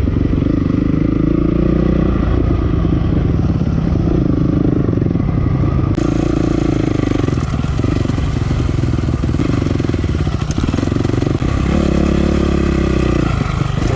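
2008 Honda CRF450R's single-cylinder four-stroke engine, heard from the rider's helmet, revving up and down over and over as the throttle is opened and closed while riding the motocross track.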